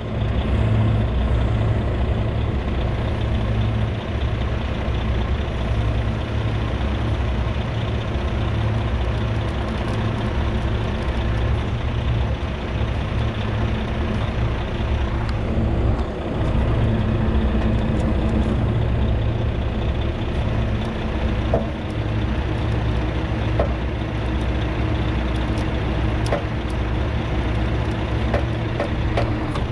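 Heavy diesel truck engine running steadily during a winch recovery of a loaded dump truck, with a few light clicks in the last third.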